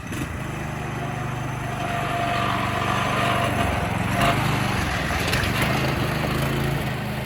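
Predator 212cc single-cylinder four-stroke engine on a go-kart running steadily at low revs, held down by its governor.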